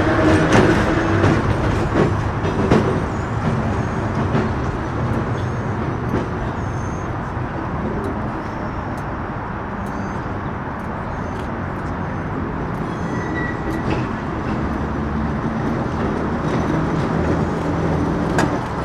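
A Perley Thomas streetcar running along its rails: a steady rumble with a low hum and a few clicks, loudest at the start and easing off over the first several seconds.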